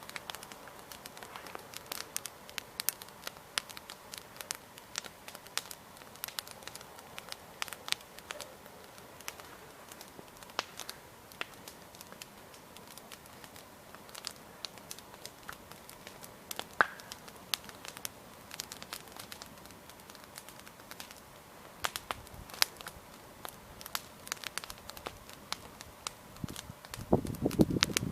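Wood campfire burning, its logs crackling and popping in sharp, irregular snaps. Near the end there is a louder, lower rustling thump.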